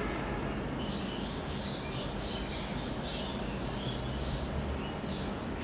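Small birds chirping in a string of short, high calls that start about a second in, over a steady low background hum.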